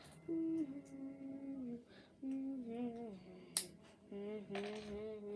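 A child humming a tune in long held notes that step up and down, with short pauses between phrases. A single sharp click, like plastic Lego pieces knocking together, comes about three and a half seconds in.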